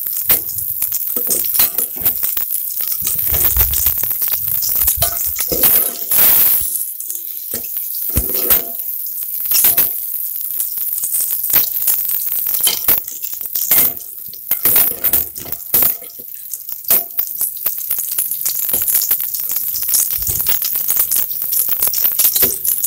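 Shallots, garlic and a whole tomato sizzling in hot oil in an aluminium pot, with a steel ladle repeatedly scraping and clinking against the pot as they are stirred and sautéed.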